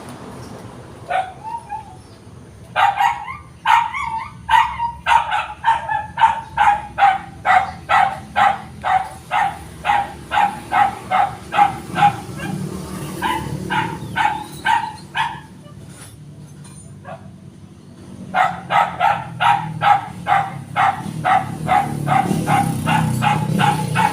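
A dog barking over and over, about two barks a second. The barking stops for a few seconds midway, then starts again.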